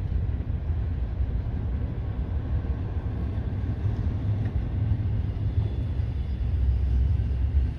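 Freight train cars rolling past a crossing, a steady low rumble.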